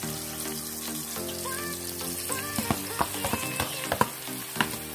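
Potatoes, tomato and chili frying in a large aluminium pan with a steady sizzle. From about halfway there is a run of sharp clatters and spits as pieces of beef are tipped into the hot pan from a bowl.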